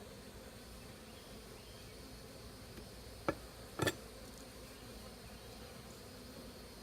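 Swarm of honey bees buzzing steadily around an open hive. A little over three seconds in come two sharp clicks about half a second apart, the hive tool and frame knocking as the next frame is pried loose.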